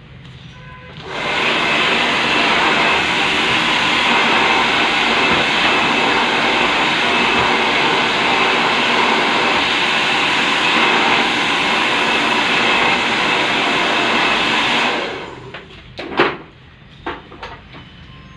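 Handheld hair blow dryer running steadily: switched on about a second in and off a few seconds before the end, followed by a few sharp clicks.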